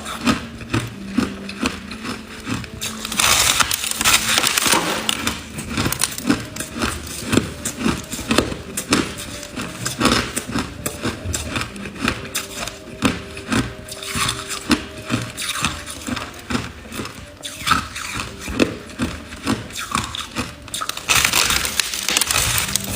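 Ice being chewed and crunched: a continual run of sharp cracks and crunches, with denser bursts of crushing about three seconds in and again near the end.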